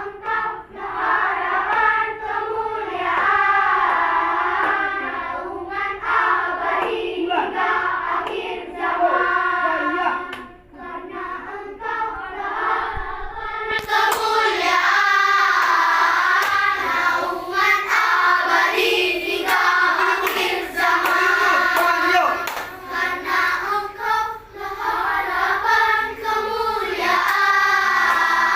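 Children's choir singing a melody together, becoming brighter and fuller about halfway through.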